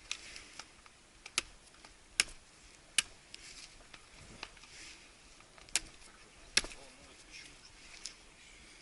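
A series of sharp, dry cracks and clicks at irregular intervals, about eight in all, the loudest about two, three and six and a half seconds in.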